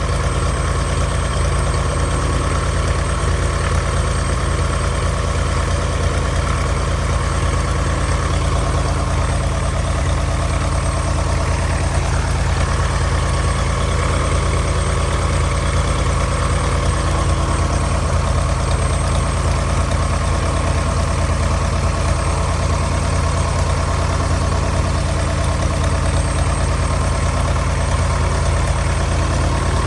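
1948 Cessna 170's six-cylinder Continental engine running steadily at idle on its first run after sitting unused.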